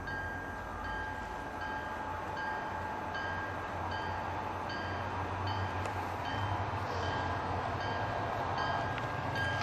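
Locomotive bell ringing steadily, about one and a half strikes a second, over the low rumble of a train.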